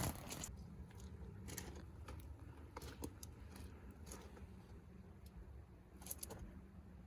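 Scattered light clicks and small handling knocks over a low steady hum.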